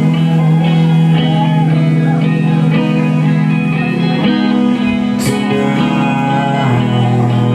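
Live rock band playing loud, distorted electric guitar chords over sustained bass notes, recorded on a small handheld device.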